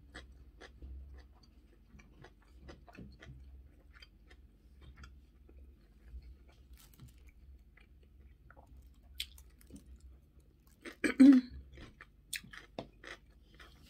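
Close-miked mouth chewing fried spaghetti with sausage: soft, wet chewing with many small clicks. A brief louder vocal sound comes near the end.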